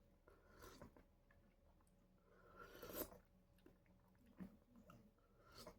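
Near silence, broken by a few faint, brief eating noises of soft chewing and mouth sounds. The loudest comes about three seconds in.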